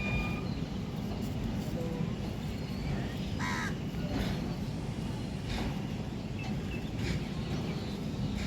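A crow cawing, one clear caw about three and a half seconds in and fainter ones later, over a steady low rumble.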